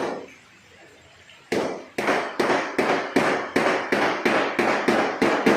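Hand hammer beating a car's steel body panel. A single strike at the start, then after a pause a steady run of ringing strikes about three a second.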